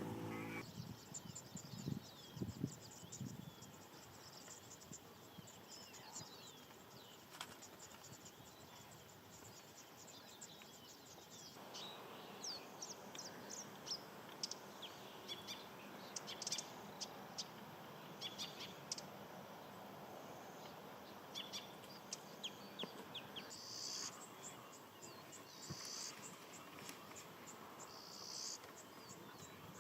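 Birds calling in many short, high chirps over a faint outdoor background, with a few buzzy bursts of calling near the end. A few louder low sounds come about two to three seconds in.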